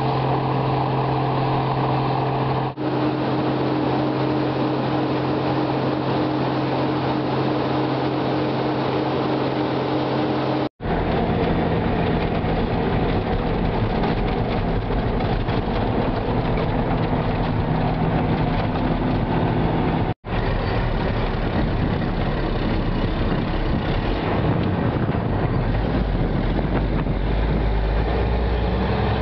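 Heavy farm machinery engines running steadily with a deep held hum, the sound changing abruptly at three cuts. Near the end an engine's pitch rises.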